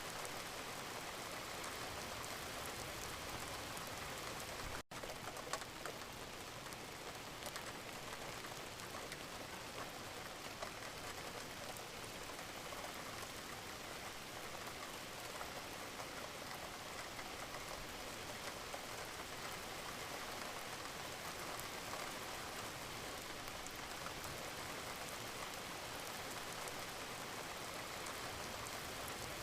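Steady gentle rain: an even hiss of falling drops with fine scattered patters, cutting out for an instant about five seconds in.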